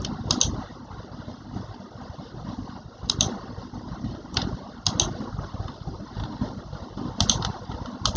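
Scattered sharp clicks of keys being pressed, singly and in quick pairs at irregular intervals, over a low steady rumble.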